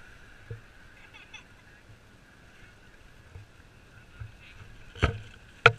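Beach ambience: a steady hiss of wind and surf with faint distant voices, broken near the end by two sharp knocks about half a second apart.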